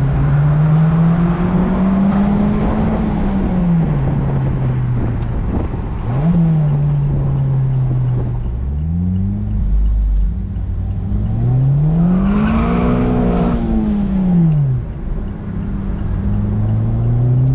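Mazda MX-5 ND's 2.0-litre four-cylinder engine revving up and down while driving. Its pitch climbs under throttle and falls back several times, with a few abrupt drops and one long rise and fall about three quarters of the way through.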